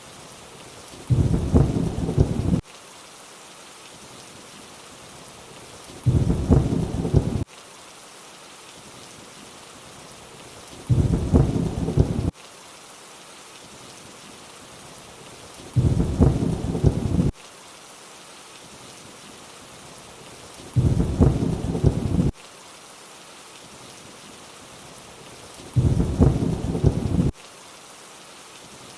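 Steady rain hiss with a short, low thunder rumble that comes back six times, about every five seconds. Each rumble lasts about a second and a half and cuts in and out abruptly, the same clip repeating in a loop.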